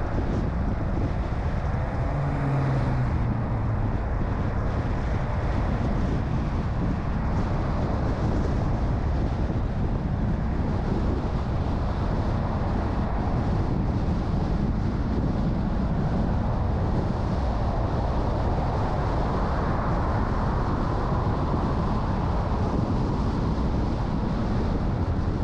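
Steady road noise of a car being driven, a constant low rumble of engine and tyres with some wind noise over it.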